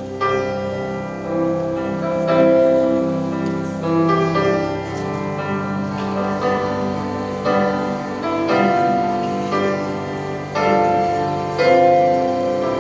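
Slow instrumental music led by piano, with sustained chords changing every second or two.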